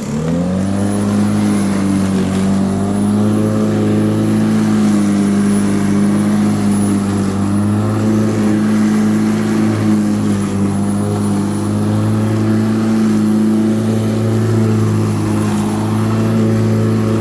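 Black & Decker 1800 W electric rotary lawnmower starting up: the motor and blade spin up quickly in the first half second, then run steadily at full speed with a faint high whine over the motor hum.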